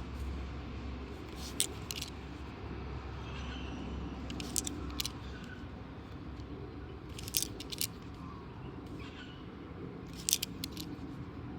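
Australian $2 coins clinking against each other in quick pairs of sharp, high clicks, about every three seconds, as they are handled and sorted. A steady low rumble sits underneath and fades out about halfway through.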